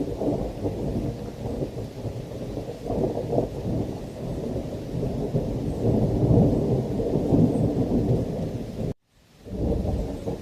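Thunder rumbling continuously over rain, swelling loudest just past the middle. The sound cuts out abruptly for about half a second near the end, then resumes.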